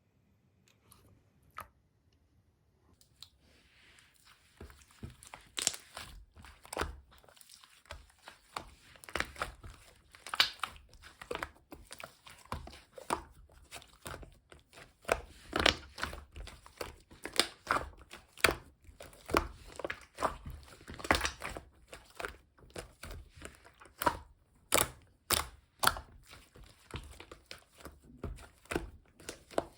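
Hands pressing, stretching and squishing a mixed two-layer slime, giving a dense run of small sharp clicks and crackles. It starts about three seconds in and goes on irregularly after that.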